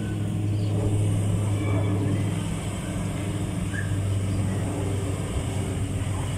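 Motorcycle engine running with a steady low hum, holding even throughout.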